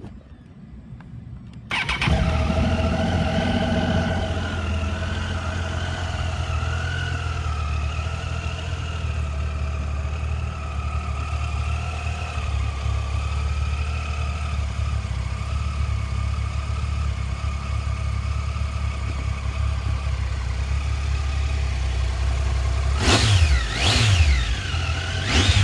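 Triumph Tiger 800 XCX's three-cylinder engine started: it catches about two seconds in and settles into a steady idle. Near the end the throttle is blipped three times in quick succession, the revs rising and falling each time.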